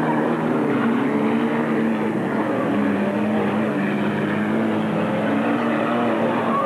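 Several banger-racing cars' engines running hard together, their overlapping engine notes rising and falling in pitch.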